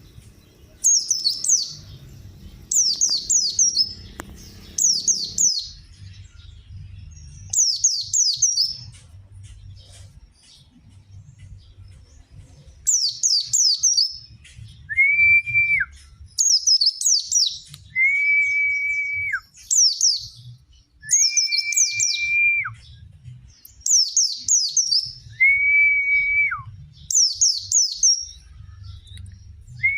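White-eye (pleci) birdsong: short, high phrases of quick falling chirps, repeated every second or two. About halfway through, long level whistled notes at a lower pitch begin to alternate with them, each note dropping sharply at its end.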